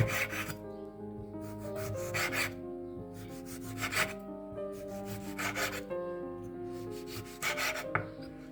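A series of short rubbing or scraping strokes, about one every second and a half, over steady background music.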